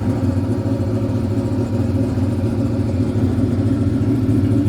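A 1989 Ford 5.0L Fox-body V8, swapped into a 1965 Mustang fastback with a 5-speed, running steadily at a cruise as the car drives along. A constant, even engine drone mixes with road noise, with no change in revs.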